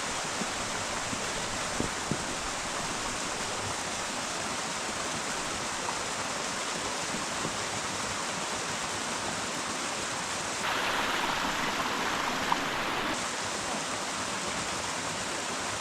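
Steady rushing noise, like running water, with no words. It turns abruptly louder and brighter for about two and a half seconds near the two-thirds mark, then drops back just as sharply.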